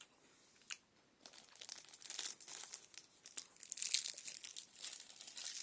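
Kinder Bueno plastic wrapper being handled and crinkled, a dense crackle that builds after a single click about a second in.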